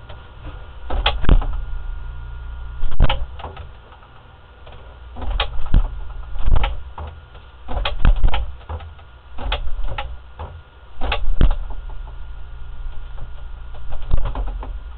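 A run of irregular knocks and clunks, about ten in all, each with a low thud, spaced one to two seconds apart over a steady low hum.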